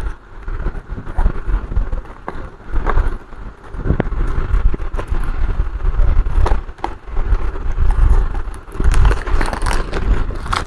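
Sticky tape being peeled off a laptop's broken plastic casing, with scattered clicks and crackles as the parts are handled, over a steady low rumble.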